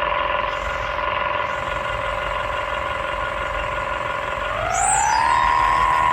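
Excavator running with a steady high whine over its engine rumble. About four and a half seconds in, the whine glides up in pitch and holds at the higher note.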